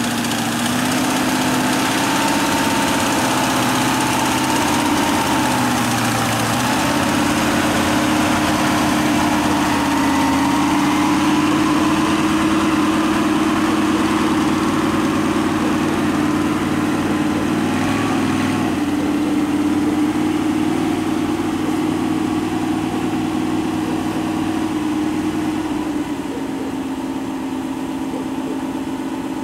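1970 Tatra 2-603's air-cooled V8 running at low revs while the car is driven slowly out of a garage, the pitch wandering slightly with the throttle and a faint whine riding above the engine note. Near the end it drops back to a quieter, steady idle.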